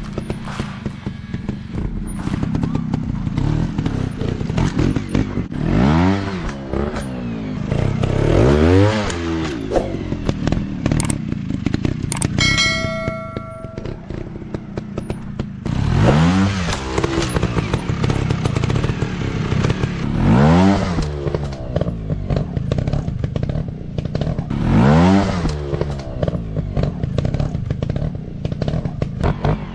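Trail motorcycle engines revving in repeated throttle bursts, each rising and falling in pitch, about every four seconds, over a clatter of knocks from the bikes on rough ground. A brief steady high tone sounds about halfway through.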